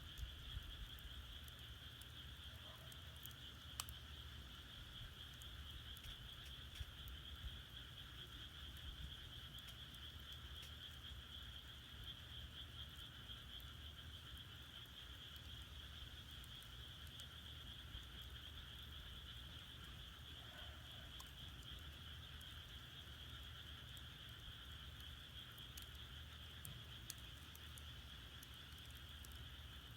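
Faint, steady high-pitched chorus of frogs calling, with sparse sharp crackles and pops from firewood burning in a traditional Korean agungi furnace, over a low rumble.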